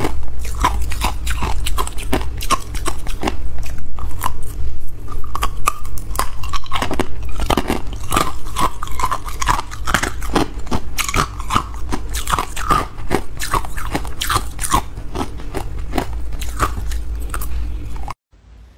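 Hard clear ice being bitten and chewed close to the microphone: a dense, irregular run of sharp, loud crunches. It cuts off suddenly near the end.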